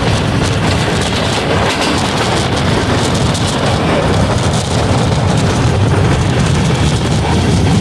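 Passenger train running at speed, heard from beside the carriage side: a loud, steady rumble of wheels on the track with a rushing noise over it.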